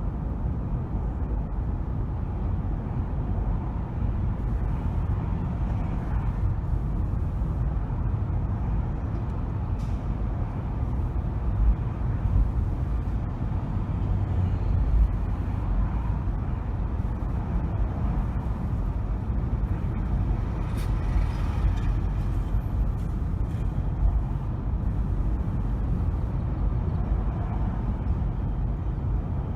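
Car driving on city streets: a steady low rumble of road and engine noise, with a brief hiss about twenty seconds in.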